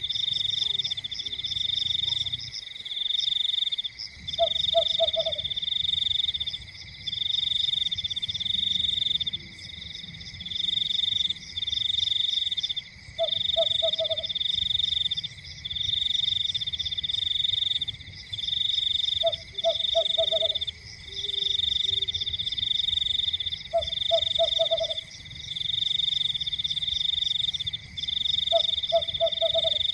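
Night chorus of calling frogs: a high pulsed trill in bouts about a second long with short breaks, and a short low croak repeating about every five seconds.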